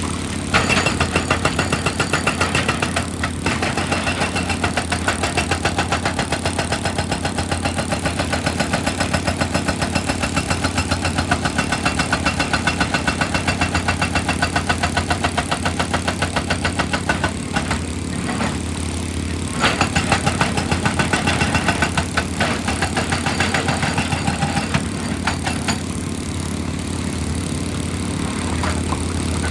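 Heavy excavator's diesel engine running under load with rapid, evenly repeated percussive hammering on rock, which stops briefly a few times.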